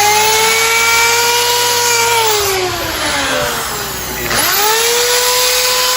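Electric drill-type power tool running with a steady whine; about two and a half seconds in its speed sags slowly, then picks up again sharply just past four seconds and holds.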